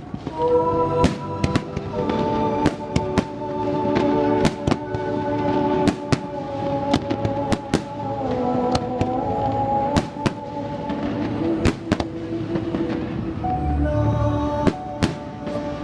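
Fireworks bursting in a string of sharp bangs, one or two a second and sometimes closer, over Christmas music with long held notes.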